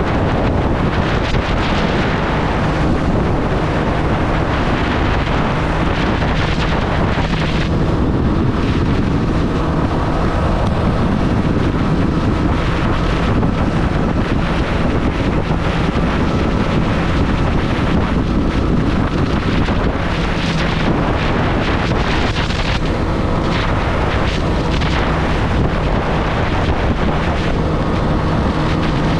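Triumph Street Triple's three-cylinder engine running while riding, under heavy wind noise on the microphone.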